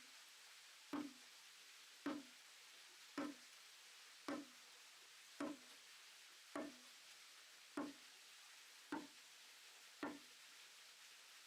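Nine evenly spaced knocks of a tool striking timber, about one a second, each a dull thud with a brief ring, as in hand carpentry work on wooden joints.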